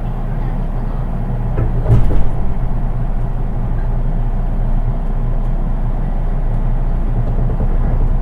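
Running noise heard inside the unpowered driving trailer car (KuHa 183) of a JR East 183 series electric train: a steady low rumble of wheels on rail, with one loud clunk about two seconds in.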